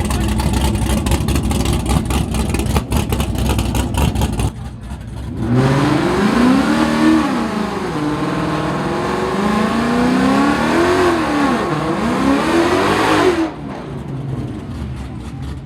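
Car engine at close range, first running with a rapid, rough rumble. From about five seconds in it revs up and down in pitch several times, then drops back near the end.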